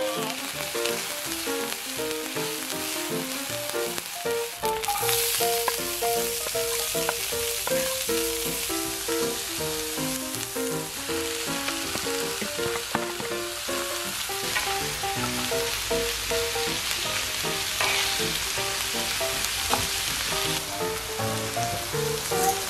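Garlic, then chopped onion and ground meat, sizzling in hot oil on a coated griddle pan and stirred with a spatula. The sizzle grows louder about five seconds in. A light background melody plays along with it.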